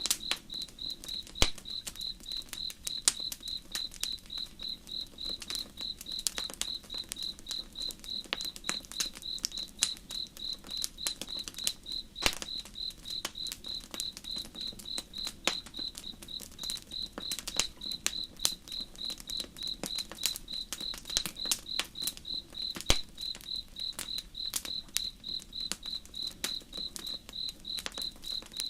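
Campfire crackling, with scattered snaps and a few sharper pops, while a cricket chirps steadily at a high pitch, about two to three chirps a second.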